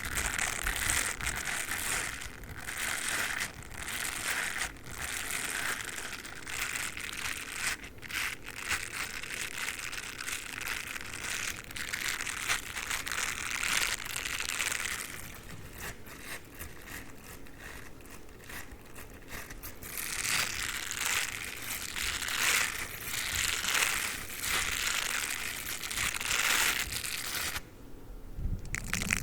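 Dog toothbrush being rubbed and scratched: a dense, crinkly scratching and rustling with many small clicks, softer for a few seconds in the middle and dipping briefly near the end.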